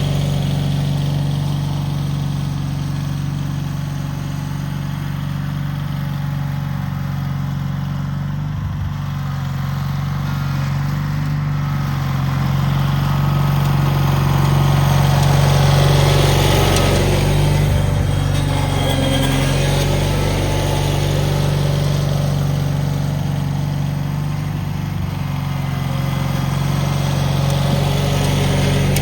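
Cub Cadet 782 garden tractor's engine running steadily, a little louder for a few seconds in the middle.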